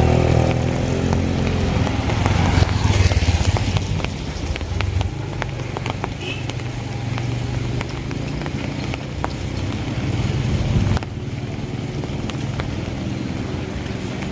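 A motorcycle engine passes close by, its pitch falling at the start, then keeps running with a lower steady note that drops away suddenly about eleven seconds in. Scattered light ticks of rain sound throughout.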